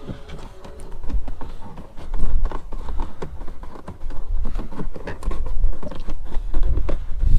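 Close handling noise: irregular small taps, clicks and rubbing with low thumps as a dash cam cable is pushed and pressed into a car's rubber weather strip and plastic trim.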